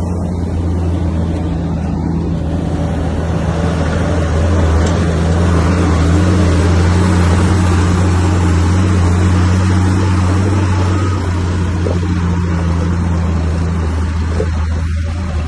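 Komatsu bulldozer's diesel engine running with a steady low drone, growing louder and rougher for several seconds in the middle as it works under load, then easing off.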